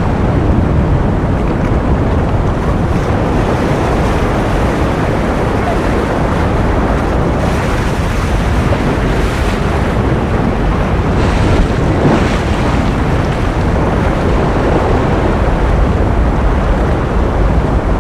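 Continuous rushing noise of ocean surf, steady in level and heaviest in the low end, with slight swells now and then.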